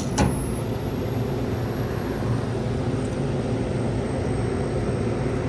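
Steady low mechanical hum of running air-conditioning equipment, with a single sharp knock just after the start.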